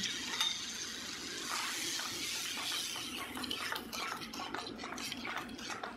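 Ground chili paste sizzling in hot oil in a wok, with a spatula scraping and clicking against the pan from about halfway through as the paste is stirred.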